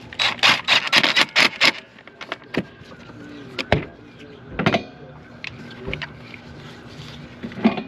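Cordless drill driving the ignition coil-pack hold-down bolts back in, run in a quick string of short bursts. A few sharp clicks and knocks of tools and parts follow.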